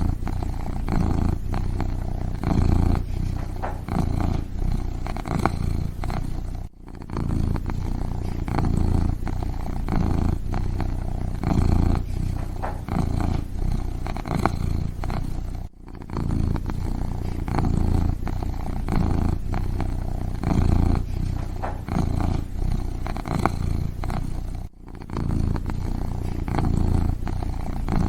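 Kitten purring close up, a steady low rumble that swells and eases in a regular rhythm about once a second, with three brief breaks spaced about nine seconds apart.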